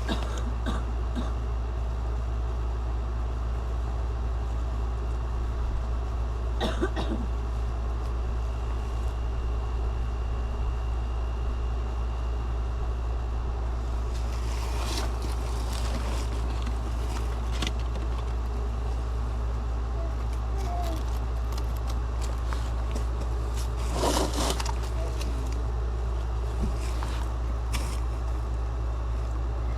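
Steady low rumble of a running vehicle, with occasional short knocks and rattles.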